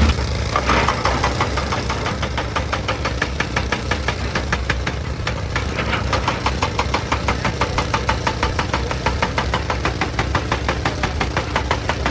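Excavator's diesel engine idling with a rapid, even clatter, after dropping from higher revs right at the start.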